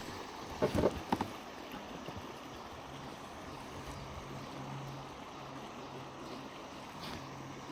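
Shallow river water running steadily, with a few short knocks about a second in and a faint steady low hum through the middle.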